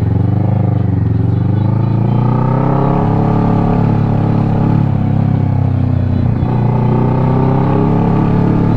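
Kawasaki Ninja 650 parallel-twin engine under way, rising in pitch over the first few seconds as the bike accelerates, then running steadily with a brief dip about six seconds in.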